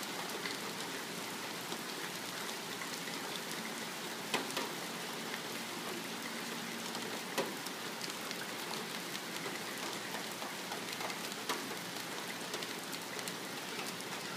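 Steady rain falling on surfaces, a constant hiss with scattered sharp drop ticks; two ticks stand out, a few seconds in and about halfway through.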